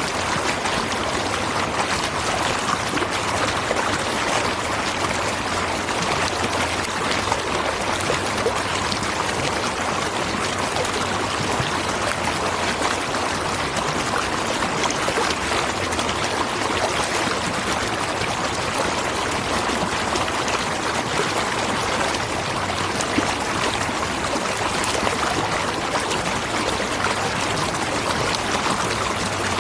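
A natural waterfall: water pouring and splashing in one steady, unbroken rush that does not rise or fall.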